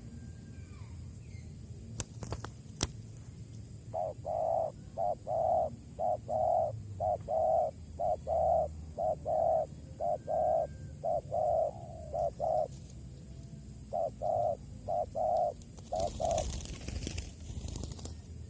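Spotted dove (tekukur) cooing: a long run of short, evenly repeated coos with a brief pause, then a second shorter run. Two sharp clicks come before the cooing and a brief burst of noise near the end.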